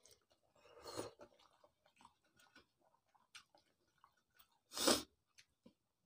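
Close-up mouth sounds of a person chewing boiled egg and omelette eaten by hand, with soft wet clicks throughout. A short, louder rush of noise about five seconds in.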